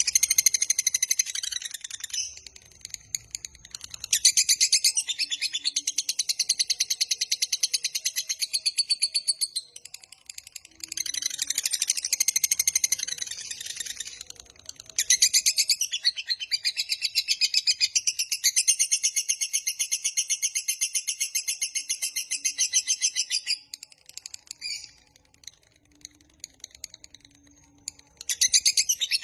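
Lovebird singing its long 'ngekek' song: shrill, rapid chattering notes run together in unbroken bursts of several seconds, with brief pauses between bursts and a quieter lull near the end.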